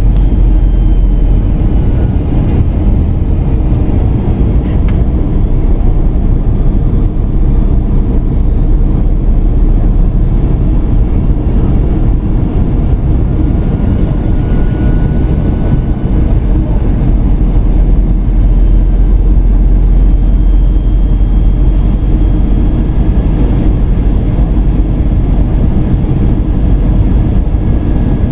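Airbus A320 in flight, heard from inside the cabin: a steady, loud, low drone of engines and airflow with faint high whining tones.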